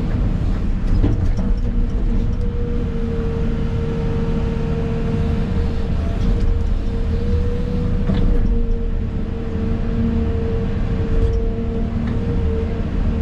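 Excavator engine running steadily, heard from inside the cab, with a steady whine over the rumble. A few short knocks come through about eight and eleven seconds in.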